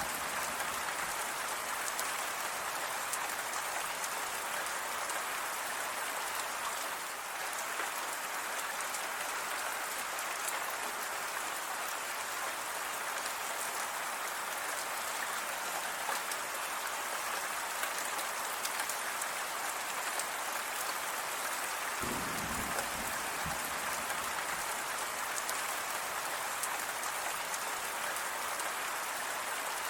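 Steady rain falling, a dense even patter of drops. About 22 seconds in, a brief low rumble sounds under it.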